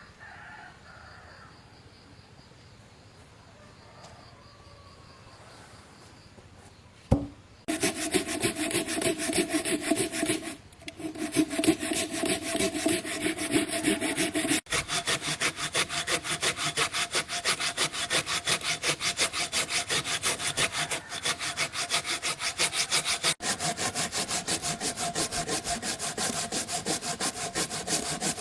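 Saw cutting through wood in quick, even strokes, starting about eight seconds in after a single knock, with brief pauses twice before it carries on steadily.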